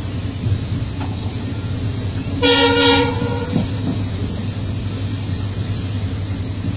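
Train horn sounding one short blast about two and a half seconds in, over the steady rumble of a moving passenger coach.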